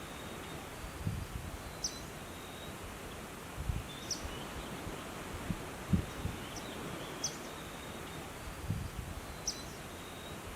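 Outdoor nature ambience: a bird repeating one short, high chirp about every two seconds over a steady hiss, with a few soft low thumps.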